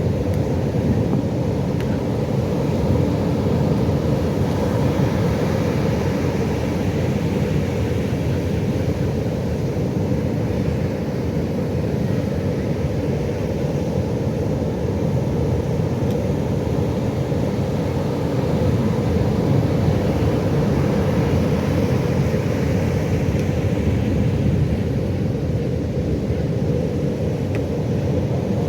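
Pacific Ocean surf: a steady low rumble of breaking waves that swells gently a couple of times.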